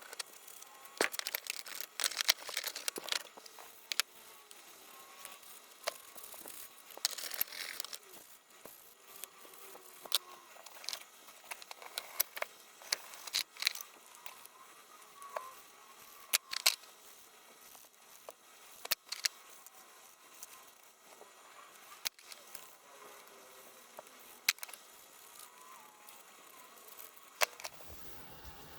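Sparse small clicks and taps with a brief scraping stretch about seven seconds in, from hand work cleaning and stripping paint off an old fan's parts.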